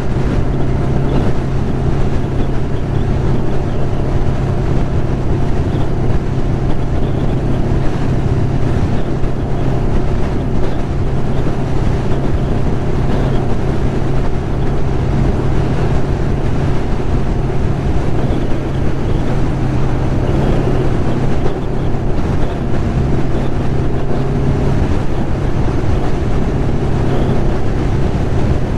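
1996 Kawasaki ZX-11's inline-four engine running at a steady cruising speed on the highway, holding one even note with no revving, under wind rushing over the microphone.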